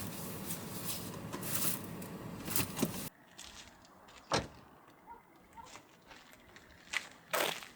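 Steady rushing vehicle noise that cuts off suddenly about three seconds in. It is followed by a few separate knocks and a louder clunk near the end, typical of a car door being handled.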